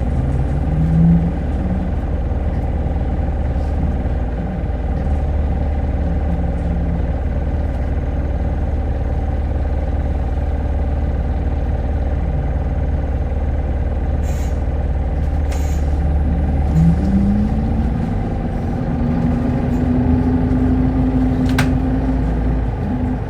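Hino Blue Ribbon hybrid city bus running, heard from inside the cabin: a steady low drone. About two-thirds of the way through, a whine rises and then holds steady as the bus pulls away, with a few sharp clicks.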